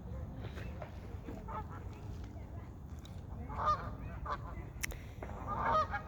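A flock of geese and gulls calling as they crowd in for food: scattered calls at first, a burst about three and a half seconds in, then a thick overlapping chorus of honks and cries from just past five seconds.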